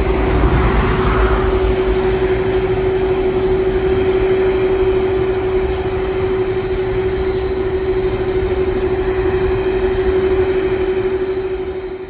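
Jet engines of a Boeing 767-400ER at high thrust during takeoff: a steady, loud roar with a low rumble and one constant whining tone held throughout.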